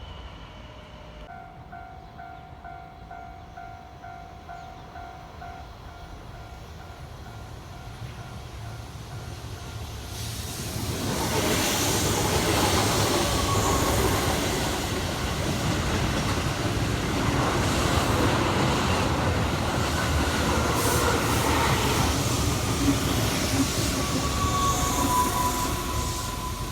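A Keihan electric train passes close by, building from about ten seconds in to a loud run of wheel and motor noise that eases off near the end, with a thin squeal near the end. Before it arrives, a pulsed tone repeats steadily for a few seconds.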